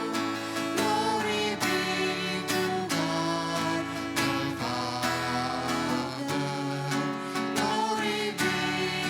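Acoustic guitar strumming chords with a band, an instrumental passage of a worship song.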